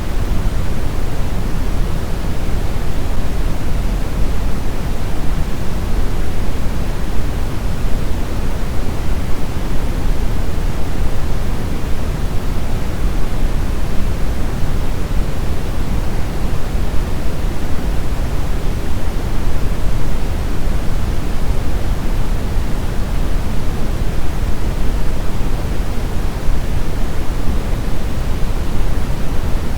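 Synthetic brown noise: a steady, deep rushing hiss, loudest in the bass and falling off toward the treble, with no changes or events.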